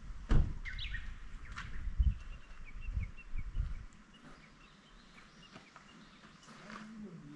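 Small birds chirping outdoors, a run of short high notes repeated over several seconds. In the first half there are dull low thumps and bumps.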